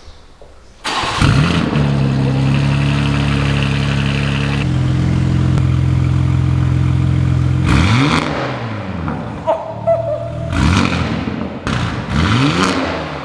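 BMW G80 M3 Competition's twin-turbo inline-six comes in sharply about a second in with a rising rev and then holds a steady high idle through a straight-piped, catless valved exhaust, really loud. From about eight seconds in it is blipped several times, the revs rising and falling quickly.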